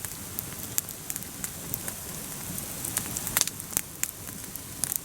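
Wood campfire crackling: a steady hiss with irregular sharp pops, a few louder ones in the middle.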